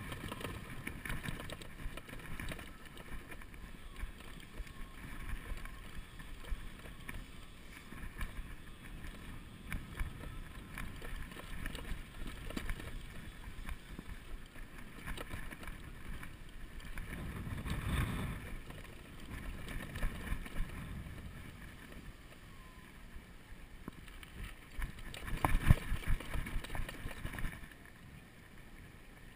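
Wind buffeting a chest-mounted camera's microphone on a moving electric bicycle: a steady low rumble that swells in louder gusts about 18 seconds in and again near the end.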